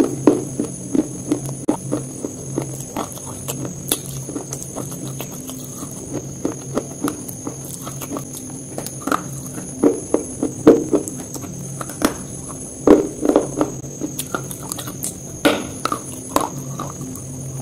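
Close-miked chewing of a KitKat chocolate-covered wafer bar: irregular crisp crunches and wet mouth clicks, with a sharper crunch near the end as a fresh piece is bitten.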